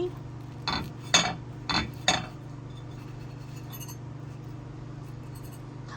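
A fork clinking against a plate as it cuts into a small chicken pie with a flaky crust: four quick clinks in the first two seconds or so.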